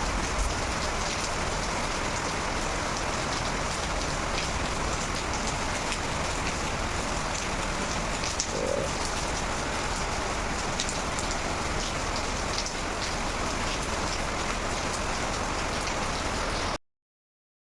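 Steady rain falling, with many small drop ticks through it; the sound cuts off suddenly near the end.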